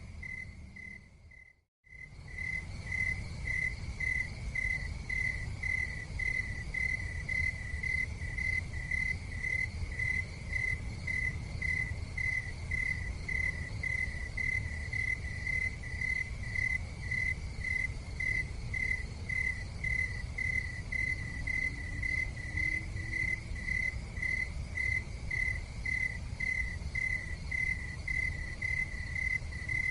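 A cricket chirping steadily, roughly twice a second, over a low, steady rumble. The sound fades out to silence for a moment a couple of seconds in, then resumes.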